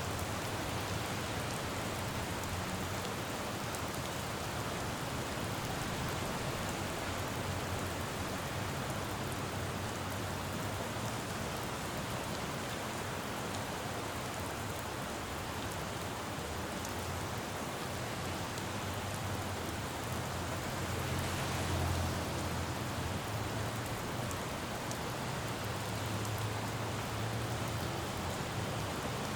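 Steady rain falling on a road, with a low rumble of traffic underneath. The rumble swells a little past the middle as a vehicle goes by, and again near the end.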